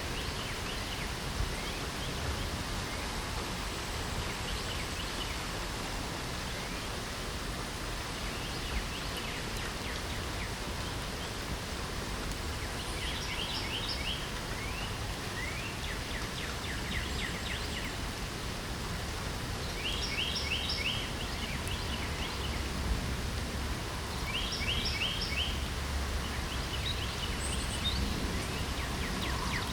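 Steady hiss of light rain with songbirds calling over it: short, rapid series of high chirping notes that come back every few seconds, more often in the second half.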